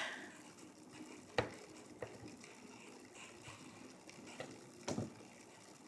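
Quiet room noise with four faint, short clicks or knocks spread through it.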